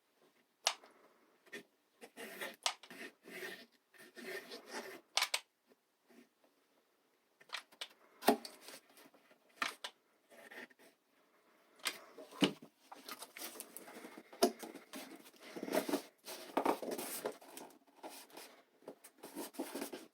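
Handling noises from hot-gluing craft board: scattered sharp clicks and taps with short scraping and rustling, sparse at first and busier in the second half.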